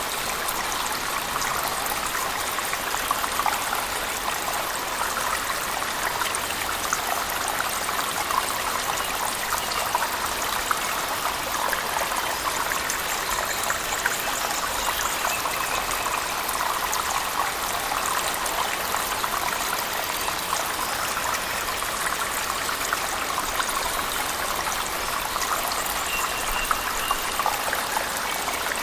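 Steady splashing of a cave waterfall mixed with heavy rain, a continuous dense rush of falling water with fine crackling drops.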